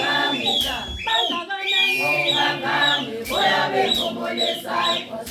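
A group of voices singing and chanting together, with short, high falling calls repeated over the singing.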